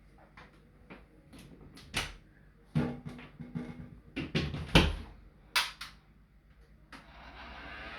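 Irregular knocks, clicks and clatter of household things being handled and set down, with a few louder thumps. Near the end a steady rushing noise starts up.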